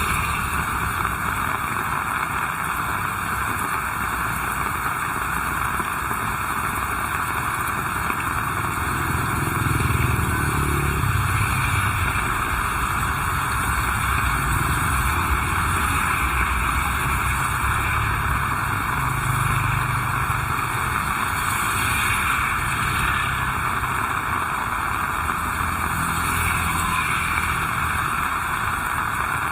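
Heavy rain falling steadily, with the low rumble of passing road traffic, likely motorcycles, swelling and fading a few times.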